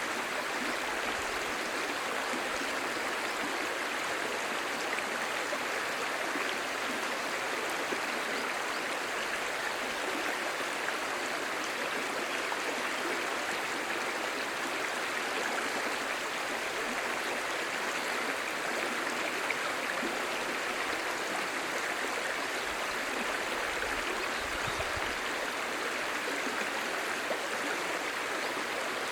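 Clear stream babbling, a steady, unbroken rush of running water.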